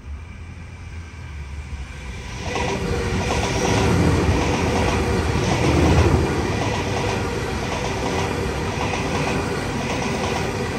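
Double-deck electric passenger train running past at close range, with a rumble of wheels on rail and a regular clickety-clack over the rail joints. It comes up about two and a half seconds in and is loudest around four to six seconds.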